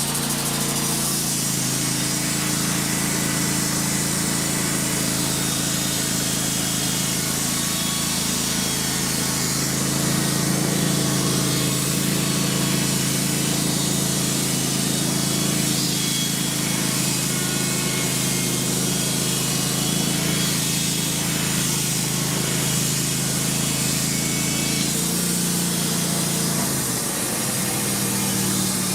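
Wood-Mizer LT15 band sawmill running steadily, its engine under load while the band blade cuts through a larch log. About 25 seconds in, the engine note changes.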